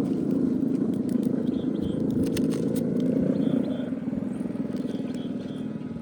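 Motorcycle engine running steadily at idle, easing slightly in loudness after about three and a half seconds.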